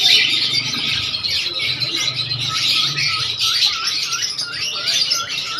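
Many small birds chirping at once in a dense, overlapping chatter. From about three seconds in, one bird repeats a short chirp two to three times a second.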